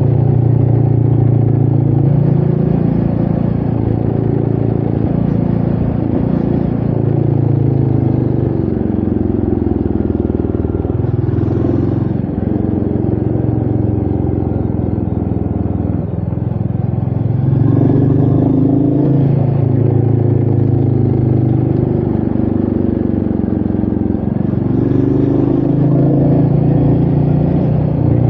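Royal Enfield Meteor 350's single-cylinder engine running under way, its note rising and falling with the throttle and dropping briefly about twelve and sixteen seconds in, with wind noise on the microphone.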